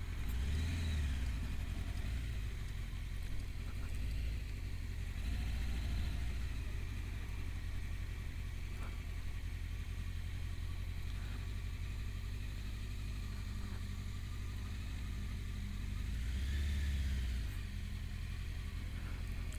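A steady low motor-vehicle engine rumble, swelling louder for about a second twice: just after the start and again around sixteen seconds in.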